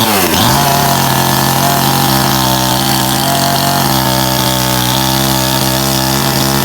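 Stihl two-stroke chainsaw running. It comes down off a rev, and from about half a second in it holds a steady high speed as it cuts into a palm trunk.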